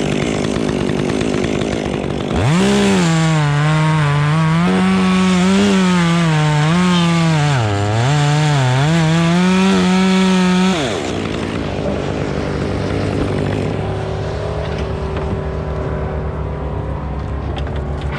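Chainsaw revving up to full throttle and cutting for about eight seconds, its pitch dipping and recovering as the chain bogs in the wood, then dropping back to a steady idle.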